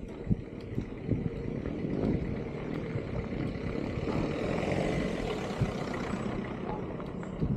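A motor vehicle passing by: its noise builds to a peak about five seconds in, then fades.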